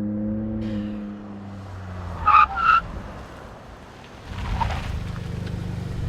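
Ford F-150 EcoBoost truck engine running steadily, with two short high squeals, most likely tire chirps, about two and a half seconds in; the engine rumble rises again in the last two seconds.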